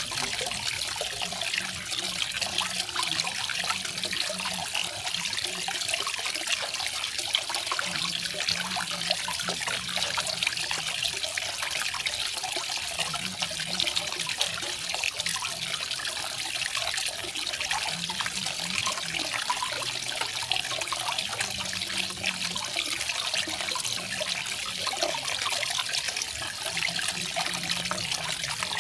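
Garden waterfall: water falling and splashing in a steady, unbroken rush.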